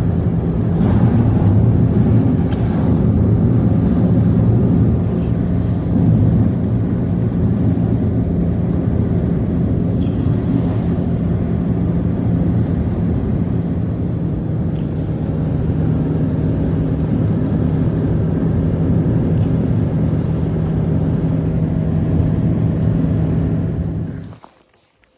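A motor running steadily with a constant low hum, then stopping abruptly near the end.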